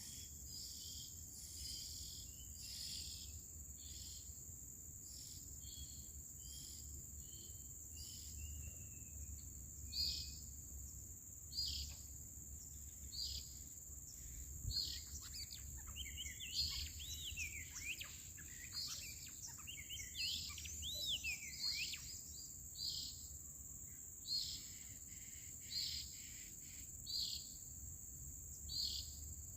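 Bird calls: short notes repeated about every second and a half, with a burst of quick looping whistles in the middle, over a steady high-pitched insect drone.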